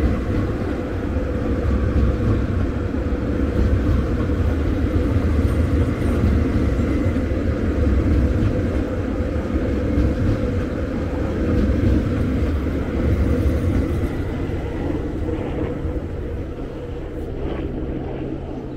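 Electric passenger train passing close by at speed: a steady, loud rumble of wheels on the rails that slowly fades over the last few seconds as the train leaves.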